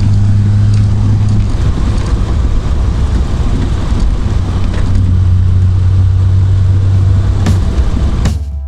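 Triumph Vitesse Mk2's straight-six engine running steadily on the move, top down, with wind and road noise. The engine note eases off about a second and a half in and picks up again around five seconds, then the sound cuts off shortly before the end.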